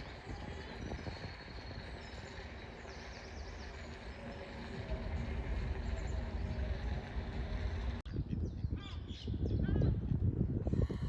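Birds calling and chirping over steady outdoor background noise. About eight seconds in the sound changes abruptly to a louder low rumble with quick, repeated high chirps.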